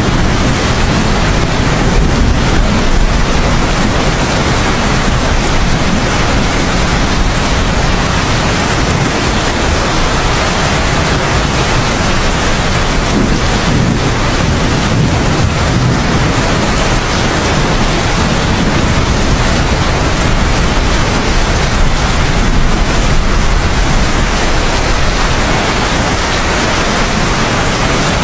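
Heavy rain falling steadily: a dense, even hiss that stays level throughout, with a strong low rumble underneath and no distinct thunderclap.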